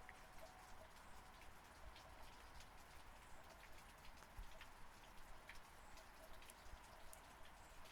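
Faint, steady rain, with many separate drops ticking sharply against the even patter.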